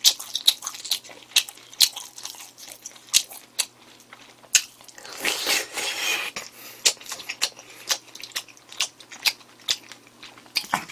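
Close-mic chewing with many sharp crunches, from a mouthful of rice mixed with crunchy pork cartilage and chicken gizzards. A longer noisy stretch comes about five seconds in.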